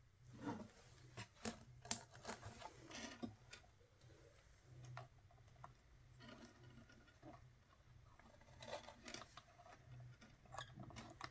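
Faint, scattered clicks and taps of tools and small parts being handled on a workbench while a voltage regulator is soldered onto a circuit board, over a low steady hum.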